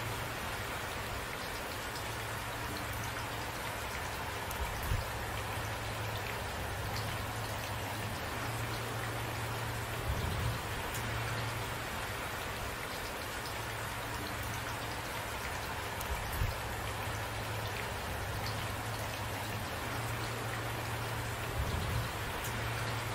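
Steady rain falling in an even hiss, with a brief louder drop or knock about every five to six seconds.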